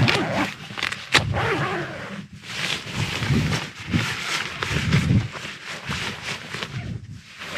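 Strong gusty wind buffeting the microphone in surges that rise and fall, with a sharp snap about a second in.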